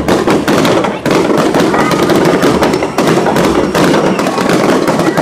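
Aerial fireworks shells bursting overhead in a rapid, continuous barrage of bangs and crackling.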